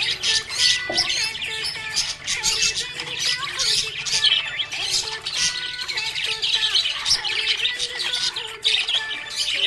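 A flock of small pet parrots chattering nonstop: dense, rapid chirps and harsh squawks overlapping, with no pause.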